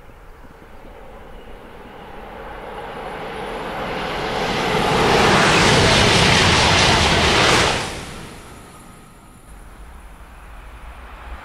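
TGV high-speed train passing at speed: a rushing noise that builds over several seconds and is loudest for about three seconds as the train goes by, then drops away quickly, leaving a low rumble.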